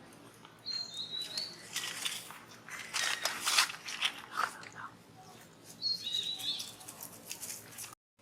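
A bird sings the same short, high chirping phrase twice, about five seconds apart. Between the two phrases comes a burst of sharp clicks and crackles.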